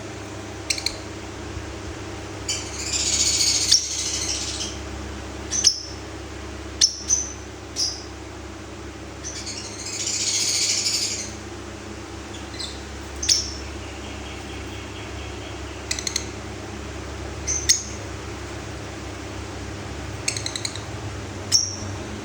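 Lovebirds calling: short, sharp high chirps scattered through, and two longer bouts of raspy chatter about three and ten seconds in, over a steady low hum.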